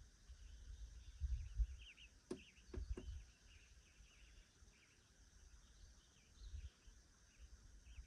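Faint outdoor ambience of small birds chirping again and again, over a low rumble that swells and fades. Three sharp clicks come close together a little over two seconds in.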